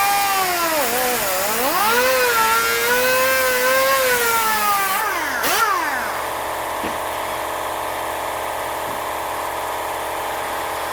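Electric drill drilling out brass threaded inserts from plastic kayak seat mounts, its motor pitch rising and falling as the bit loads and frees. About halfway through, the motor winds down with a click and a falling whine, and a steadier motor hum carries on.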